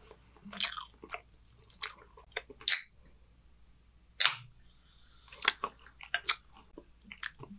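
Close-miked chewing of food, soft wet mouth squishes and clicks, with a couple of louder smacks about three and four seconds in.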